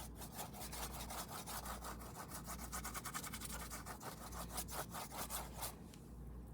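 Paintbrush scrubbing paint onto the painting surface in quick back-and-forth strokes, about four or five a second, stopping near the end.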